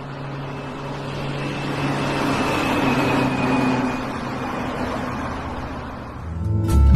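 Car driving: a steady engine hum under road noise that swells up to about the middle and then eases off.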